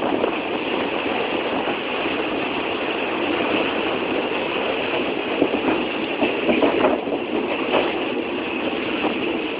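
Train running, a steady loud rumble and rattle, with a few sharper knocks between about five and eight seconds in.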